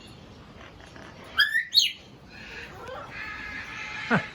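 Aviary birds calling: two quick, sharp calls about a second and a half in, then a call that slides steeply down in pitch near the end, over quieter chatter from other birds.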